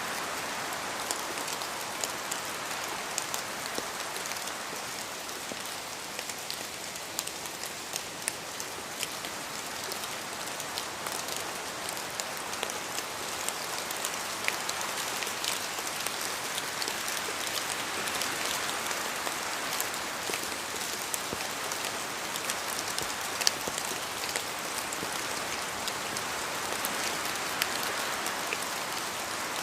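Steady rain with many separate drops falling from the trees and landing close by as sharp ticks over the hiss. The hiss swells and eases slowly.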